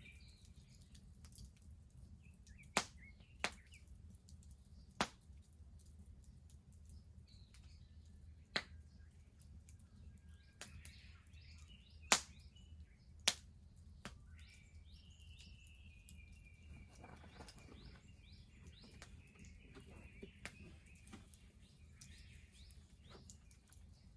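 Wood bonfire crackling, with about six sharp, loud pops in the first half. Birds chirp faintly behind it, with one longer drawn-out call in the second half.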